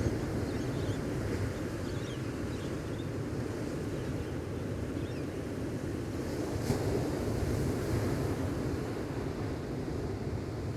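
Gentle ocean waves washing steadily onto the beach, with a few faint high bird chirps now and then.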